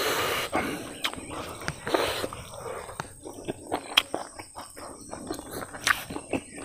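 Close-miked eating sounds of a man chewing a mouthful of food: irregular wet smacks and clicks of the lips and mouth, with a couple of short breathy rushes.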